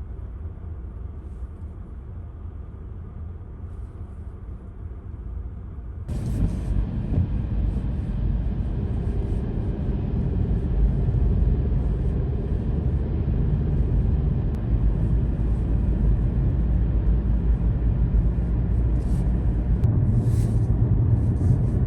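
Car driving: a steady low road and engine rumble that grows louder about six seconds in.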